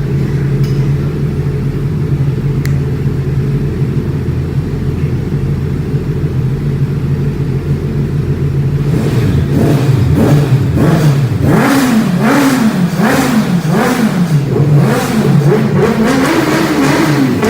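Motorcycle engine and exhaust idling steadily, then revved in quick repeated throttle blips from about nine seconds in, the pitch rising and falling about once a second.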